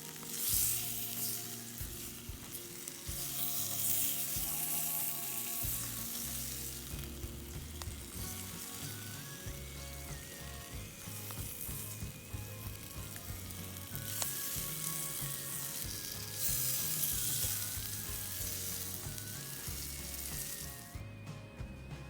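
Food frying and sizzling in a pan over a campfire. The sizzle swells louder about half a second in and again around two-thirds of the way through, with soft background music underneath.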